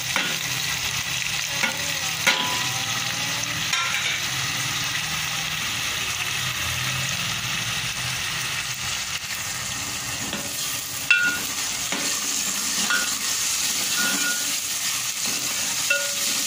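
Chopped tomatoes sizzling steadily in hot oil with ginger-garlic paste in an aluminium pot, with a few sharp clinks of a steel ladle against the pot as it is stirred.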